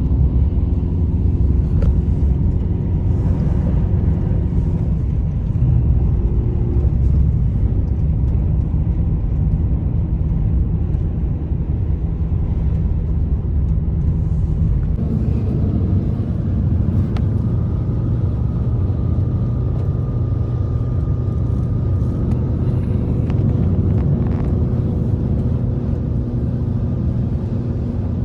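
Blizzard wind, a steady low rumble with faint steady howling tones that change pitch about halfway through.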